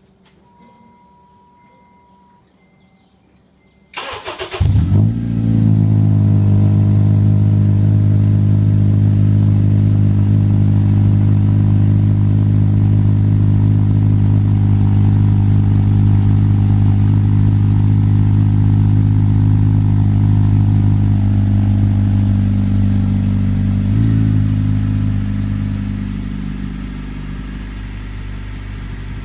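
A CU2 Acura TSX with aftermarket Megan Racing mufflers and no silencers is cold-started. The starter cranks briefly about four seconds in and the engine catches into a loud, steady high idle. Near the end the idle drops and settles lower and quieter.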